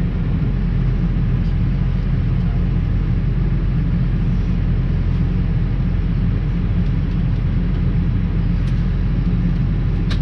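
Diesel engine of the farm machine moving the sprayer, running steadily at low revs as the sprayer is reversed into a shed.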